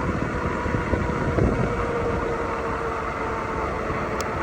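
Wind buffeting the microphone while riding a folding electric bike at speed under pedal assist, with a steady thin whine from the bike's motor. A single short click about four seconds in.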